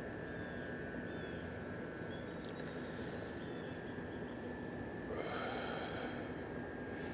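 Outdoor ambience: a steady rushing noise, with a thin steady whine and a few faint short chirps over it, and a single sharp click about two and a half seconds in.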